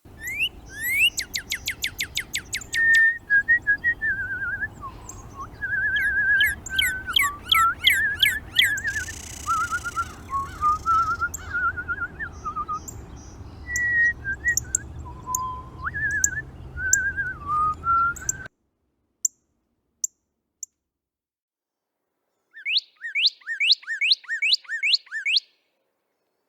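Northern cardinals singing: rapid series of loud downslurred whistled notes, mixed with other birds' wavering chirps. The sound drops out about two-thirds of the way through, then one more quick series of downslurred notes comes near the end.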